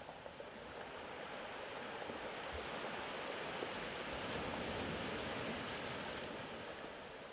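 Soft ocean surf ambience: a steady wash of waves that swells to a peak past the middle and then ebbs away.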